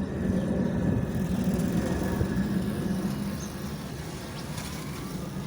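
Jet engine noise from the Antonov An-225 Mriya's six D-18T turbofans, a steady low rumble that slowly fades.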